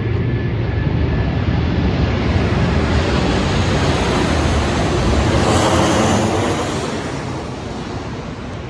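Aeroplane flying overhead: a loud rushing engine roar that builds to its peak about six seconds in, then starts to fade away.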